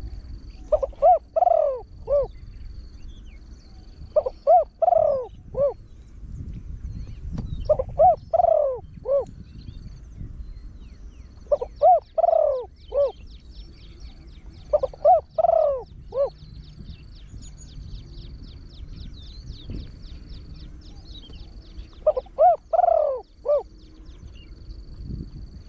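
A trained spotted dove with a deep voice cooing repeatedly: six phrases a few seconds apart, each of about four short falling coos. Faint high chirping runs in the background.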